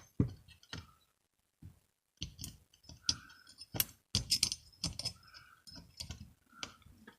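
Irregular clicks and small knocks of metal starter-motor parts being handled and fitted together, several with a short metallic ring.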